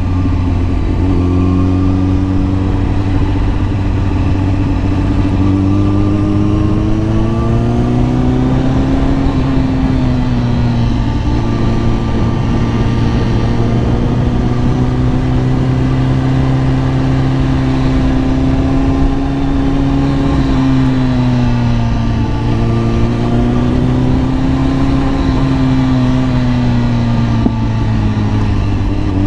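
Kawasaki ZX-10R sportbike's inline-four engine under way, its pitch rising and falling slowly several times as the rider works the throttle, over a steady low drone.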